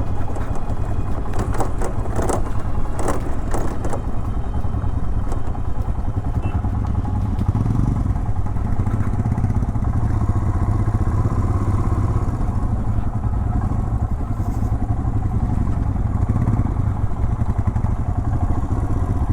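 Motorcycle engine running steadily while riding, with a short run of sharp clatters and knocks a couple of seconds in.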